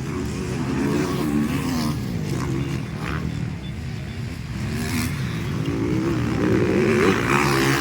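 Motocross bike engines revving hard, their pitch rising and falling again and again with the throttle and gear changes, getting louder toward the end.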